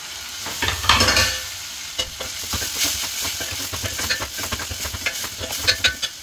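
Chopped tomatoes and onions sizzling in hot oil in a stainless steel pan, stirred with a steel ladle that scrapes and clicks against the pan. The sound is loudest about a second in.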